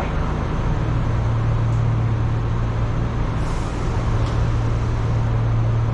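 Enshu Railway electric train running, heard from inside the car: a steady low hum over even rumbling wheel and rail noise, with a brief hiss about three and a half seconds in.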